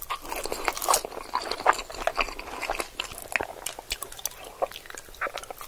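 Close-miked eating of french fries: irregular crisp crunches, chewing and mouth sounds.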